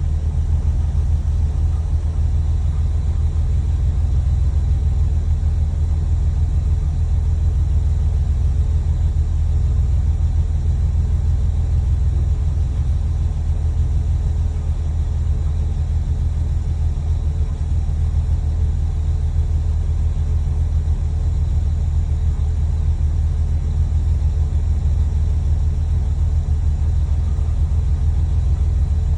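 Porsche 993 VarioRam air-cooled flat-six engine running steadily at an unchanging speed, with a vacuum leak at one of its intake runners.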